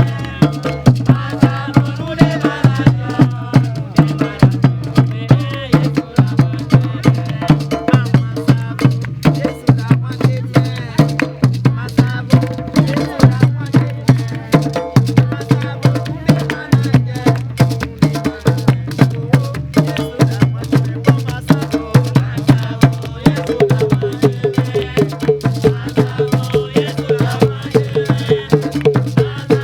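Live West African percussion music: hand drums and rattles keep up a fast, steady rhythm over a repeating low drum pulse, with voices singing over it. Near the end, quick repeated pitched notes come in.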